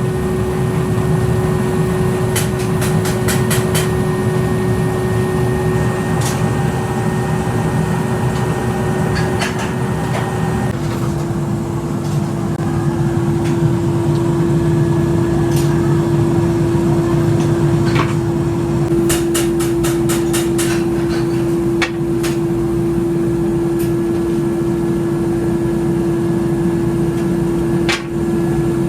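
A workshop machine running with a steady hum and rumble, with sharp metallic clinks and taps here and there.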